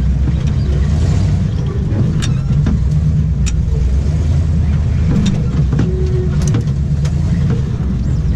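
Range Rover V8 engine running steadily at low revs, heard inside the cab as the 4x4 creeps over rough ground, with several sharp clicks and knocks from the cabin.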